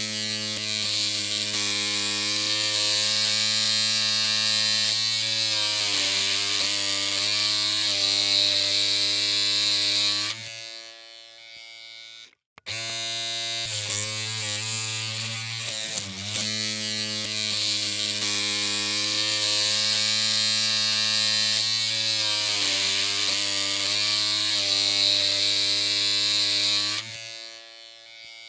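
Electric hair clippers running with a steady buzzing hum. The buzz dies away about ten seconds in, stops for a moment and starts up again, then dies away again near the end.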